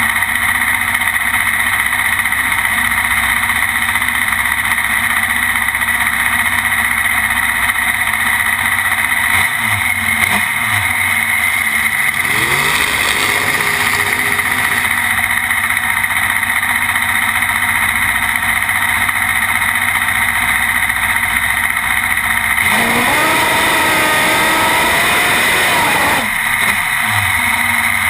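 Drag-racing motorcycle engine noise: a loud, steady wash of sound, with engine revs rising in pitch about 12 seconds in and again, more strongly, about 23 seconds in.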